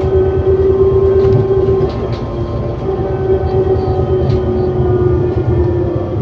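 ADL Enviro400 City double-decker bus with a Voith gearbox under way, heard from on board: the engine and drivetrain run with a low rumble and a steady high whine. The whine dips slightly in pitch about two seconds in and again near the end.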